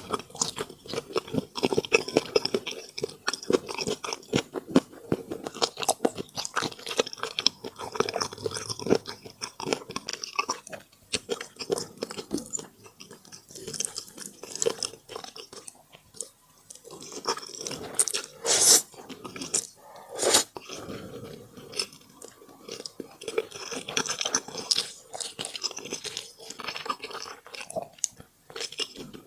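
Close-miked mukbang eating: steady crunchy chewing and biting with wet mouth sounds, in short runs broken by brief pauses. Two sharp, loud crunches come about two-thirds of the way through.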